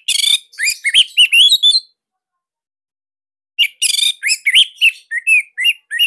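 Orange-headed thrush (anis merah) singing: two bursts of rapid, gliding whistled notes with sharp high chips, separated by a pause of about two seconds.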